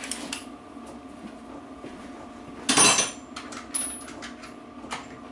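Metal tools and parts handled on a workbench: one loud metallic clatter about three seconds in, with a brief ring, then a few lighter clinks.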